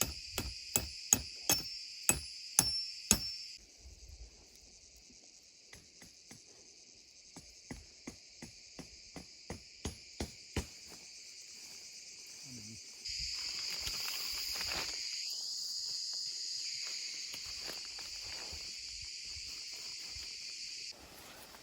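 Hammering: about eight sharp knocks in the first three seconds, then a few lighter taps a little later. A steady high insect chirring runs under the first knocks, drops out, and comes back for the second half.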